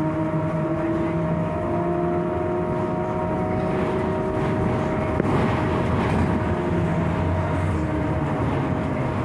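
Scania 6x2 electric trolleybus under way: a steady whine from the electric drive sits over the rumble and rattle of the moving bus, and the rattling grows louder for a couple of seconds midway.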